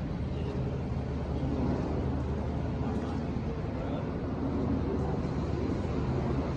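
A steady low engine drone that runs without a break.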